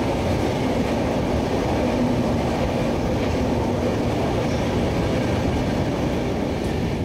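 Samaleswari Express passenger train running through a hill tunnel, heard from the coach doorway: a loud, steady rumble of the wheels on the rails.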